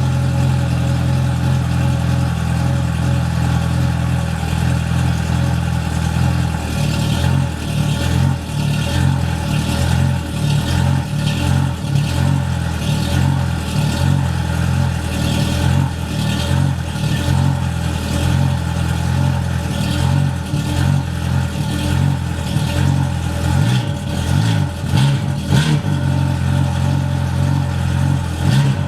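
Yamaha FZS personal watercraft's supercharged four-cylinder engine, breathing through a Riva thru-hull exhaust, idling steadily just after starting, then revved in repeated short blips from about seven seconds in.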